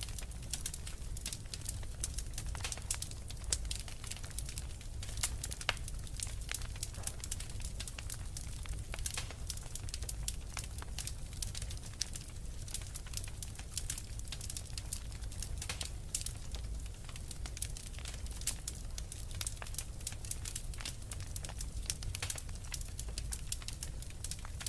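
Wood fire burning in a fireplace, crackling with frequent small, irregular pops over a steady low rumble.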